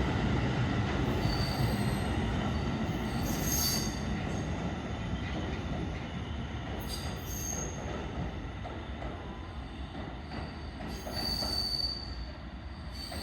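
New York City Subway R211A train running on the rails, a steady rumble that slowly fades as it moves away, with its wheels giving short high squeals several times.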